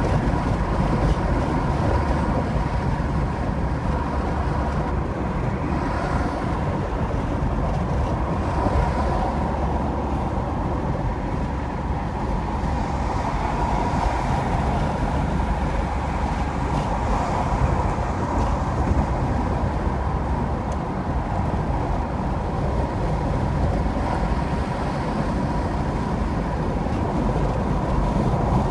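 Car driving on the interstate: steady tyre and road noise with engine hum.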